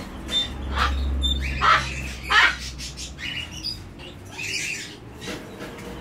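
Birds squawking in short, irregular calls, the loudest about two and a half seconds in, with a few thin high chirps between them.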